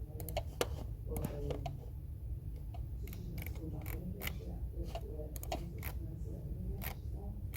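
Computer keyboard keys clicking in sparse, irregular keystrokes over a steady low hum.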